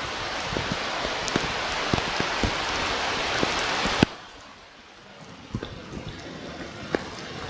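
Rain on an outdoor nest-camera microphone: a steady hiss with scattered drop ticks, which falls off abruptly with a click about four seconds in, leaving fainter hiss and occasional ticks.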